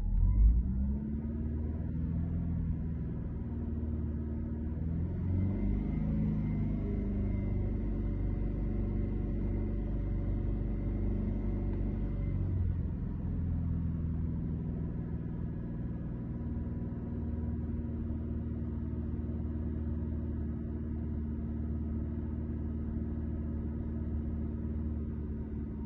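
Alfa Romeo GT engine running at a raised, fast idle, heard from inside the cabin. Its note wavers and settles over the first several seconds, then steps down slightly about twelve seconds in.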